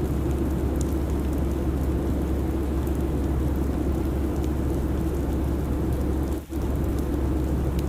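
Steady airplane cabin noise: a continuous low rumble and hiss with faint scattered ticks. It drops out for a moment about six and a half seconds in, then resumes unchanged.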